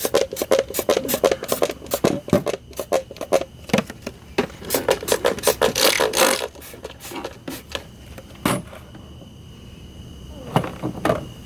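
Nitrous oxide sputtering and hissing from the kit's line at the solenoid inlet as the bottle is cracked open to check for a leak: a rapid irregular crackle that stops about six seconds in, followed by a few single clicks.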